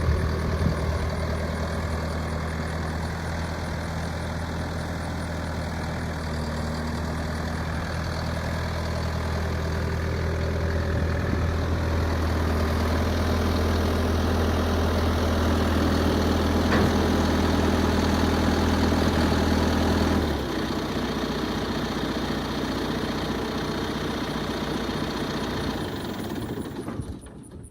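2017 John Deere 6120R tractor's diesel engine idling steadily. About twenty seconds in its low note drops and it gets quieter, then the sound fades out near the end.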